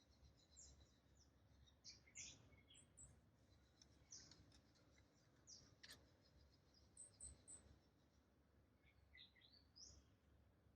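Near silence with faint bird chirps: short, high calls coming in small clusters every second or two.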